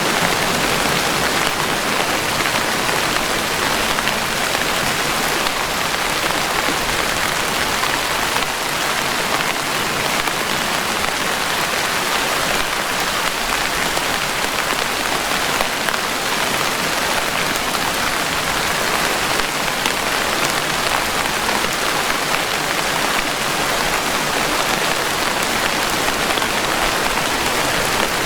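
Steady rain falling: a dense, even hiss of raindrops that holds at one level throughout, with no thunder.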